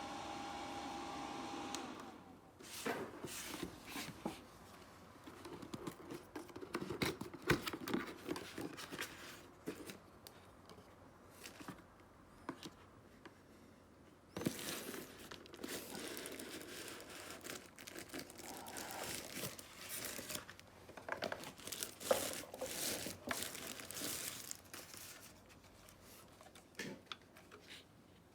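A mini fan's small motor hums steadily, then cuts off about two seconds in. Plastic then crinkles and rustles, with irregular clicks, as it is handled.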